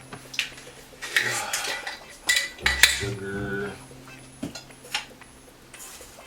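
Kitchen utensils and dishes clinking and knocking: about half a dozen separate sharp clinks as ingredients are spooned and measured into a mixing bowl.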